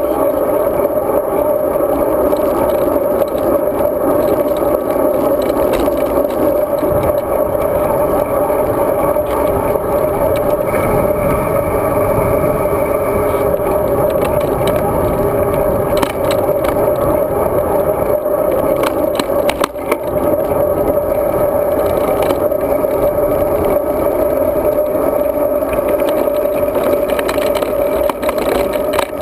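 Steady, muffled wind and road noise of a road bike being ridden, picked up by a bike-mounted GoPro Hero 2, with a few brief clicks and rattles a little past the middle.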